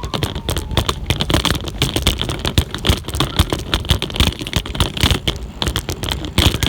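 Bicycle ride heard through a handlebar-mounted phone: the phone and its holder rattle and knock continuously as the bike jolts over rough ground, over a low rumble of rolling.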